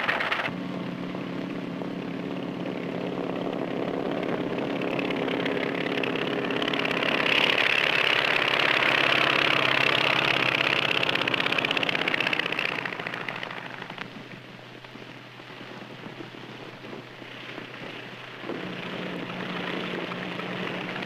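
Light aircraft's propeller engine running on an old film soundtrack. It swells to its loudest in the middle, fades away, then comes back near the end, with a steady hiss and hum from the old recording throughout.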